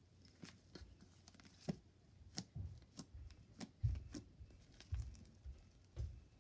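Fluffy slime being squished and kneaded by hand, giving irregular sticky clicks and pops with soft low thumps, a few every second.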